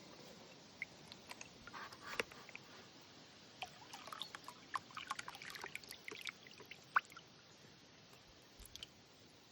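Light water splashes and drips as crucian carp are let into a pond: scattered small patters and clicks, busiest in the middle and dying away near the end.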